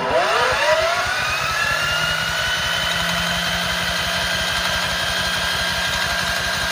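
DR Leaf & Lawn Vacuum's small gasoline engine catching on the electric start and spinning up, with a rising whine over the first two seconds that levels off into steady running.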